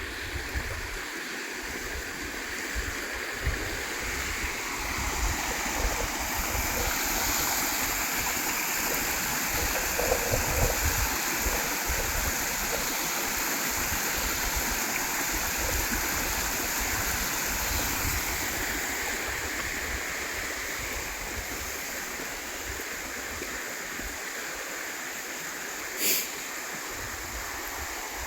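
A river flowing steadily as a constant rush of water, growing louder through the middle and easing again. Irregular low rumbles run beneath it, and one short sharp sound comes near the end.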